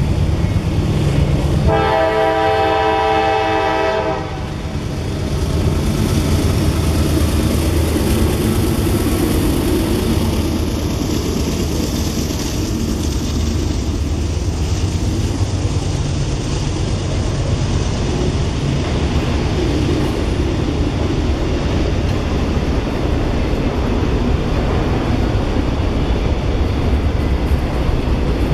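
A CSX freight train's diesel locomotive sounds a short blast on its multi-tone horn about two seconds in, then rumbles past close by. The rumble and wheel noise of the autorack cars rolling by follow.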